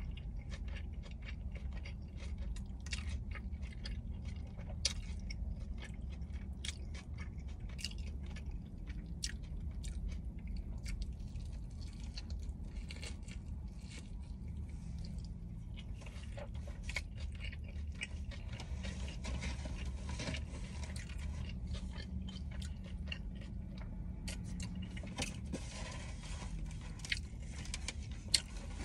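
A person chewing and biting into a double cheeseburger and cheese fries close to the microphone, with many small crunchy, wet clicks, over a low steady hum.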